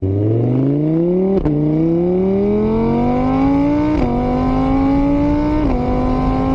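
Car engine accelerating hard through the gears. Its pitch climbs steadily and drops back at three upshifts, about one and a half, four and five and a half seconds in, then holds steady.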